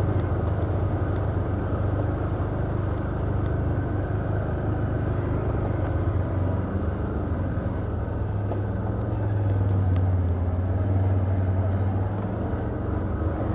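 Can-Am Outlander ATV engine running steadily with a low, even drone, swelling slightly a few seconds before the end.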